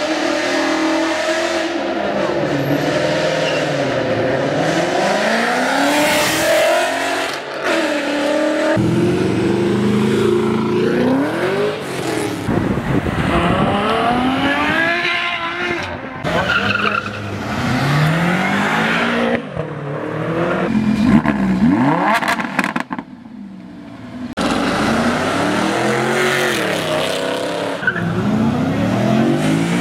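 Performance car engines revving and accelerating, the pitch climbing and falling over and over, across several short clips that change suddenly about 9, 12 and 24 seconds in.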